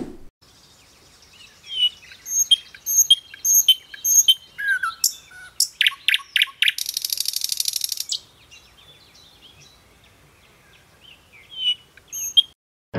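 Several birds chirping and calling, with a fast trill of rapidly repeated notes for about two seconds midway. A short low thump comes at the very start.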